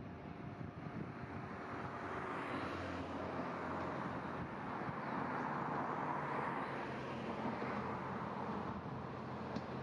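Diesel railcar passing: a low engine hum with rushing wheel and rail noise that swells about halfway through and stays up.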